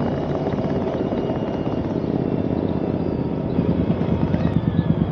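Motorcycle engine running while riding, a rapid throbbing beat that grows stronger and more pronounced about three and a half seconds in.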